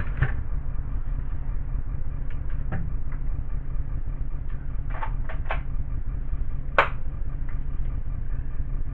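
A steady low rumble with a handful of short knocks and clicks over it, the sharpest about two-thirds of the way through.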